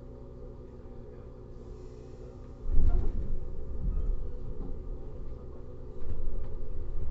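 Inside a JR 115 series EMU motor car: a steady low hum with several fixed tones while the car stands still. About two and a half seconds in, a sudden loud low rumble sets in and carries on, swelling and dipping, as the train gets under way.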